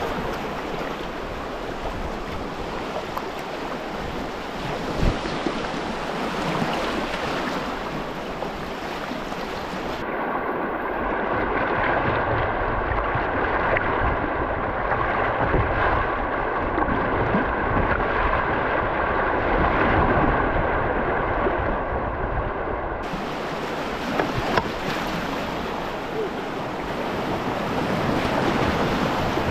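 Moving river water rushing steadily, with wind buffeting the microphone. The sound turns duller for a stretch in the middle and clears again about 23 seconds in.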